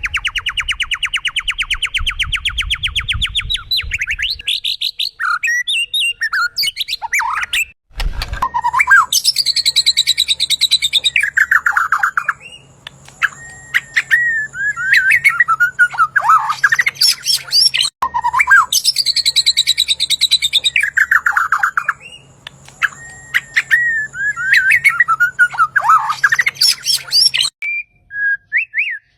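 Songbird singing loudly: a fast rising trill of repeated notes, then chattering, whistled phrases. From about eight seconds in, a ten-second stretch of song repeats almost exactly over a faint steady hum, like a looped recording being played back.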